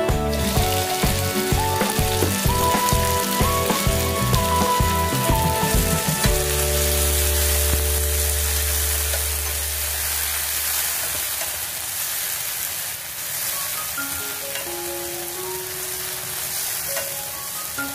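Hot oil sizzling steadily in a pan as food fries, the start of a tomato sauce. Background music with a beat plays over it for about the first six seconds, stops, and comes back softly near the end.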